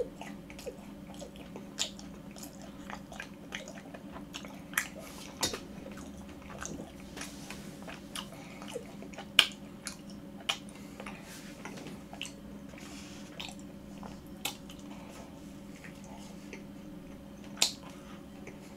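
Close-miked eating sounds: soft chewing with scattered wet mouth clicks and smacks, and a sharper bite into a macaron near the end.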